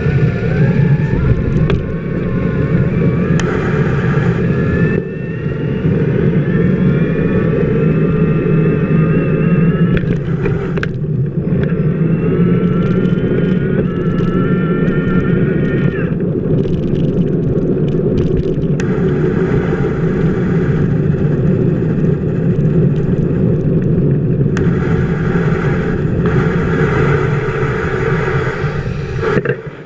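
Steady loud rumble of a bicycle wheel rolling over wet city pavement, heard from a camera mounted on the wheel hub. Twice, a whine rises in pitch and holds for several seconds, the second time cutting off suddenly.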